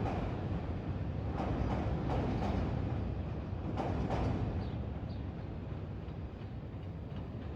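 A train passing: a steady low rumble with a few sharp clacks of the wheels, fading slightly toward the end.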